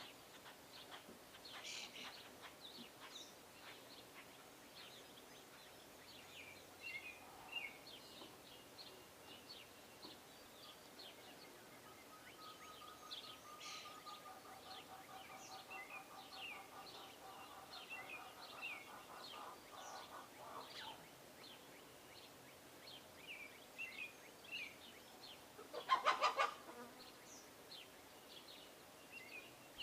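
Small songbirds chirping at feeders, with short calls scattered throughout. A lower, even trill runs for several seconds in the middle, and one loud call comes near the end.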